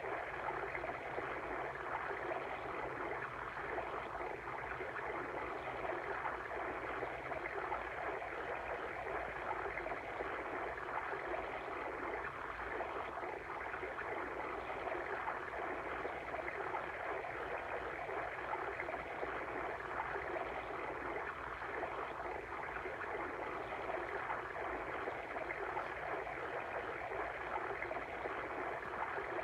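Water stream running steadily, a continuous bubbling flow.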